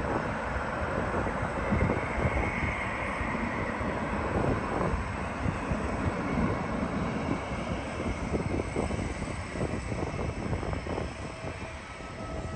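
Jet airliner's engines passing on its landing approach, a steady rushing noise that eases off near the end.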